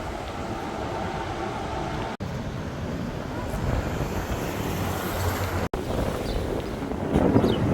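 Wind buffeting a phone's microphone as a steady rushing rumble, cut by two brief dropouts and growing louder near the end.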